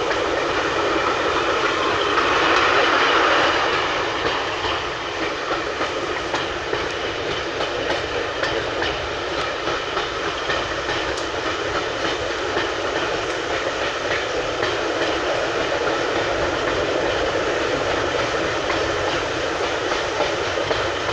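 Steady running noise aboard a heritage passenger train: wheels rumbling along the rails with scattered clicks, swelling briefly a couple of seconds in.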